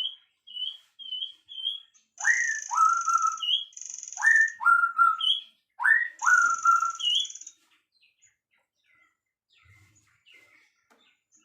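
Songbirds singing: a few short rising chirps, then three loud repeated phrases, each a slurred note dropping into a held whistle, with buzzy high trills over them. The song stops about three-quarters of the way through, leaving faint scattered chirps.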